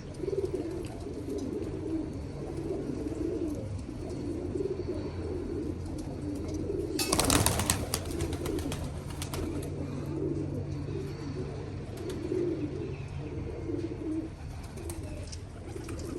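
Domestic pigeons cooing continuously, several voices overlapping. About seven seconds in comes a loud, noisy rustling burst lasting about a second.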